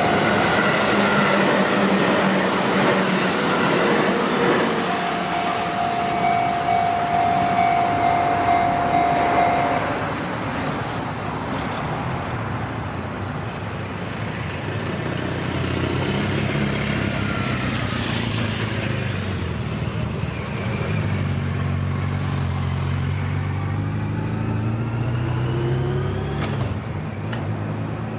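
A train running past at a level crossing, loud and steady with a held mid-pitched tone, easing off about ten seconds in. Then road vehicles pull away over the crossing, their engines rising in pitch as they accelerate.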